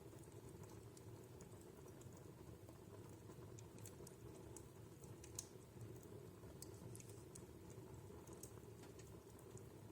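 Wood fire in a fireplace crackling faintly: scattered small pops and snaps over a low steady background, with one sharper snap about five seconds in.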